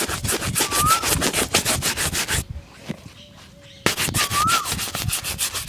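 Quick back-and-forth strokes of a brush rubbing over a shoe while it is shined, about eight strokes a second. The brushing stops for about a second and a half midway, then starts again. A short whistled chirp sounds twice over it.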